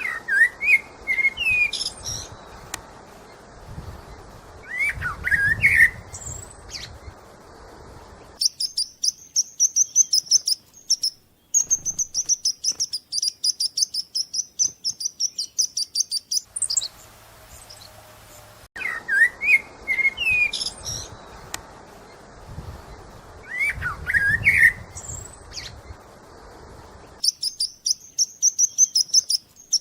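A songbird singing: fast runs of high, sharp chirps alternate with lower whistled, gliding notes. The same passage of song comes round again about 19 seconds later.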